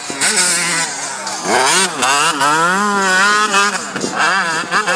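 Motocross bike engines revving, their pitch rising and falling repeatedly as riders work the throttle; the revving grows louder about a second and a half in.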